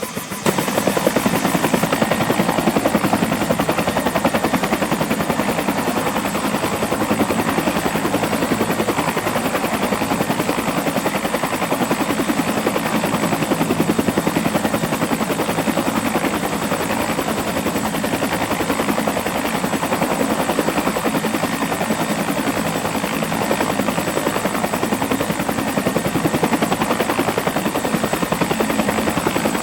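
Bell 212 helicopter running with its two-blade rotor turning, driven by its twin Pratt & Whitney Canada PT6T Twin-Pac turboshaft engines: a steady high turbine whine over a rapid, even rotor chop. The sound jumps louder about half a second in and then holds steady.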